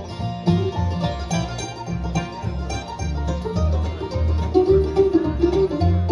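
Live bluegrass band playing an instrumental break between verses, with quick plucked banjo notes prominent over guitar and a low bass line.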